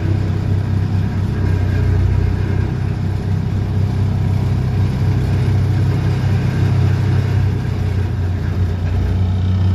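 DPD350T vibro hammer on an excavator, running steadily with a strong low hum as it vibrates a steel sheet pile into the ground.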